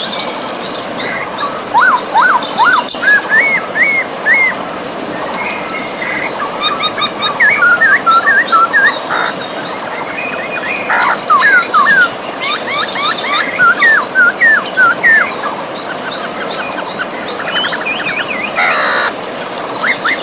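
Several songbirds singing and calling in quick whistled notes and chirps, many sweeping up or down in pitch, over the steady rush of a river.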